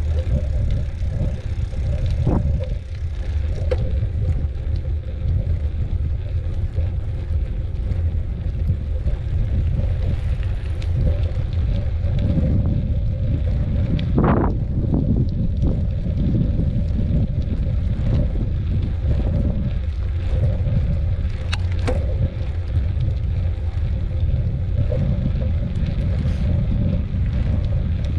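Bicycle ridden along a dirt trail, heard as a steady low rumble of tyres and wind buffeting the microphone, with a few sharp knocks and rattles from bumps.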